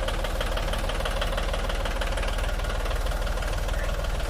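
Tractor diesel engine running steadily, with a rapid, even knock.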